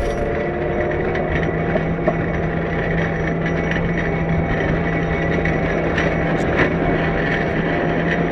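Cat 908 compact wheel loader's diesel engine running steadily at a constant pitch, with a few light clicks.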